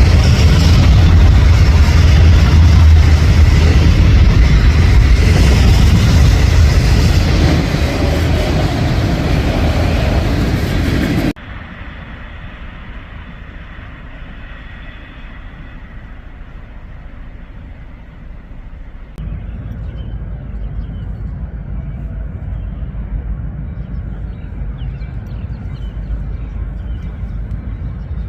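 Freight train rolling past on the rails: a loud, deep rumble that eases slightly and then cuts off abruptly about eleven seconds in. It gives way to a much quieter rumble that grows louder again in the last third.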